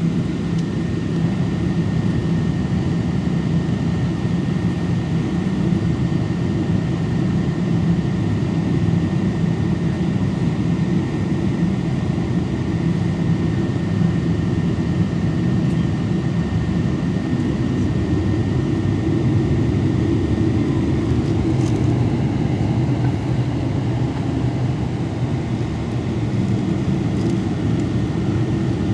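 Boeing 777 cabin noise while taxiing: a steady low rumble from the idling engines and the rolling airframe, with a faint steady high whine.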